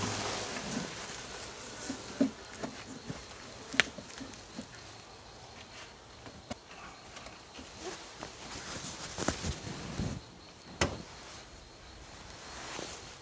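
Honey bees buzzing around an open hive, with scattered sharp clicks and knocks, the loudest about four seconds in and near the end.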